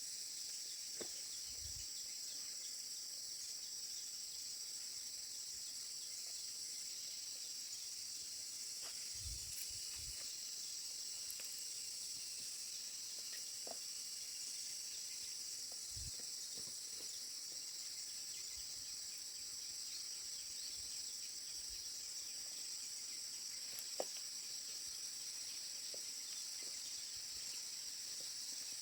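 Steady high-pitched insect chorus, with a few faint light knocks and one sharp tick near the end.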